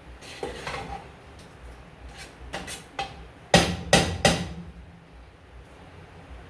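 Kitchen clatter of pots and utensils being handled: scattered light knocks and clinks, then three loud knocks in quick succession about three and a half seconds in.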